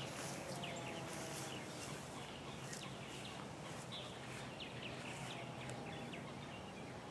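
Faint bird chirps: many short, quick calls that slide downward in pitch, scattered throughout over a steady outdoor hiss.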